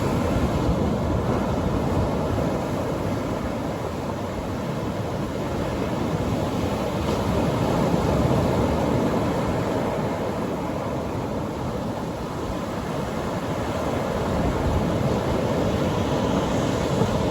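Atlantic Ocean surf breaking and washing on the beach, a steady rumbling wash that swells and eases every few seconds.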